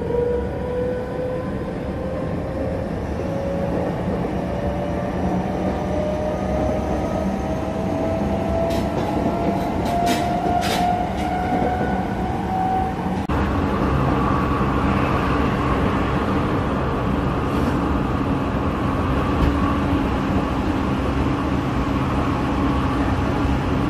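Electric commuter train on the Tōyō Rapid Railway, heard from inside the carriage: the traction motors whine, rising slowly in pitch as the train gathers speed. About 13 seconds in the whine cuts off, leaving the steady rumble of wheels on rail, with a few faint clicks shortly before.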